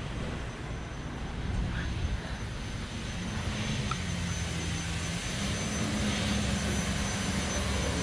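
Steady low rumble of a vehicle with a droning hum, growing a little louder toward the end.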